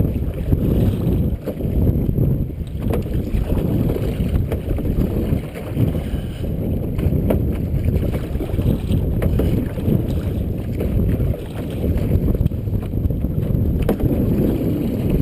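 Wind buffeting the microphone in a steady, gusty low rumble out on choppy open water, with a few small knocks scattered through.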